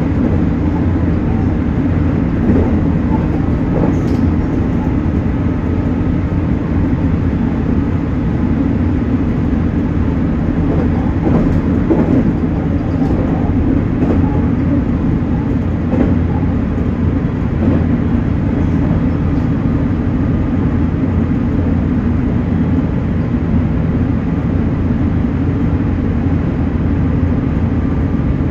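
JR Kyushu 813 series electric train running along the line, heard from inside the front car: a steady running rumble of wheels on rail, with a few faint clicks.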